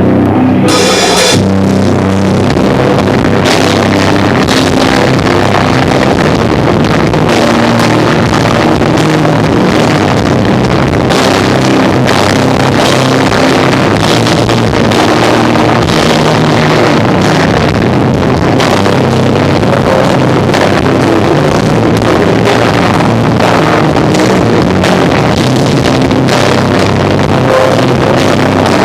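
A live rock band, a three-piece of drum kit, electric guitar and bass guitar, playing a song loudly. The recording is harsh and overloaded.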